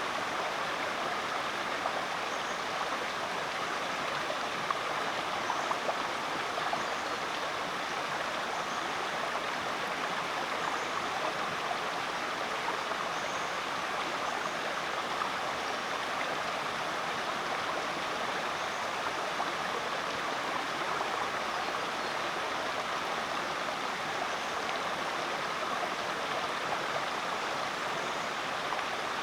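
Rainforest creek flowing steadily.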